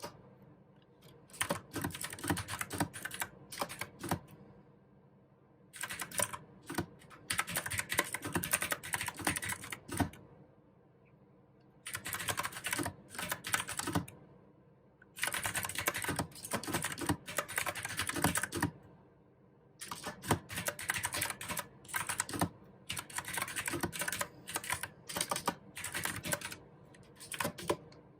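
Typing on a mechanical keyboard with blue switches: runs of quick keystrokes broken by pauses of a second or so, four times.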